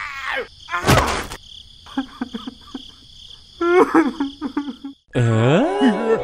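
Cartoon sound effects: a loud crash about a second in, then scattered clicks and short squeaky chirps. Near the end comes a long pitch slide that dips and rises, over a faint steady high whine.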